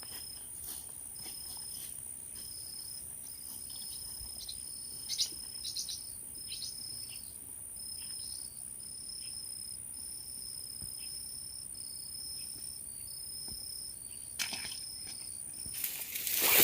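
Woodland insects and birds: a steady high insect trill with a short high chirp repeated about once a second. Near the end it gives way to a loud rustling, crinkling handling noise.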